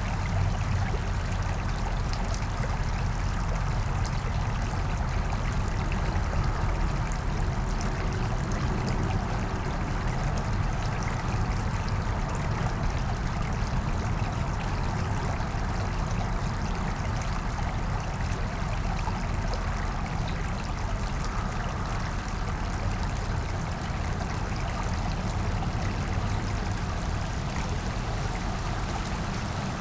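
Small brook flowing and babbling steadily over rocks, with a constant low rumble underneath.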